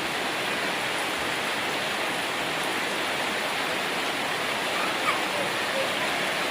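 Heavy tropical downpour and rushing floodwater making a steady, dense watery noise.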